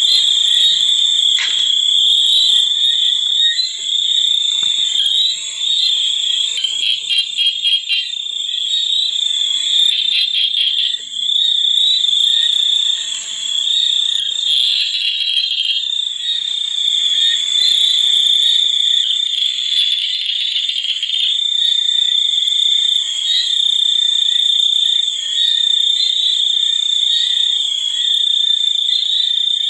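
A dense chorus of frogs and insects: a steady high-pitched trilling drone, with bouts of fast pulsing calls over it.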